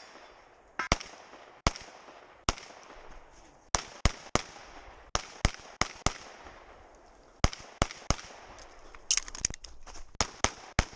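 Pistol shots fired during a timed practical-shooting stage: about twenty shots in quick pairs and short strings, with brief pauses between groups and a short echo after each shot.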